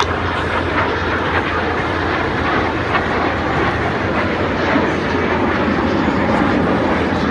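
Two BAE Hawk jet trainers flying a crossing double-roll manoeuvre, heard as a continuous jet-engine rush of noise that builds slightly toward the end.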